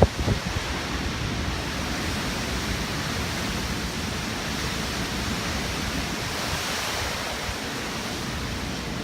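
Hurricane wind blowing as a steady rushing noise, with a couple of low buffets on the microphone right at the start.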